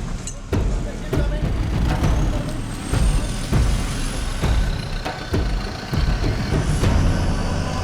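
A motor vehicle engine running, with a steady beat of sharp thuds nearly twice a second.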